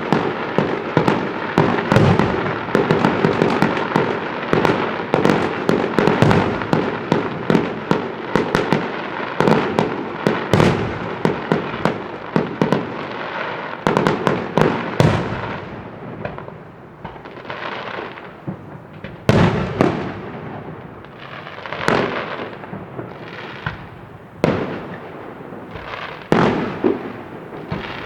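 Fireworks display: a dense, rapid barrage of cracks and bangs for about the first half, then thinning to separate loud shell bursts, each followed by a fading crackle.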